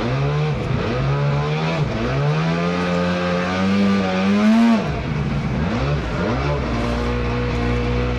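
Small boat motor revving up and down, its pitch rising slowly and then falling away, before settling into a steady run near the end.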